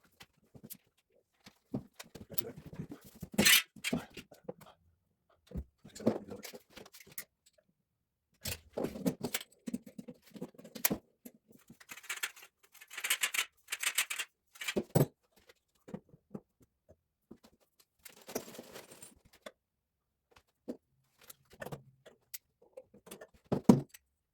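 Intermittent handling noise during plumbing work: clinks, knocks and short scraping or rustling stretches, with a sharp knock near the end.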